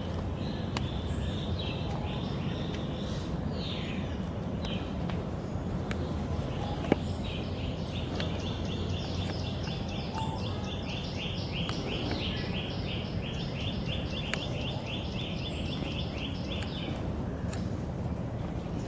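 A small bird calling in a rapid, even series of high chirps, about four a second, for roughly ten seconds in the middle, over a steady low outdoor rumble. One sharp click about seven seconds in.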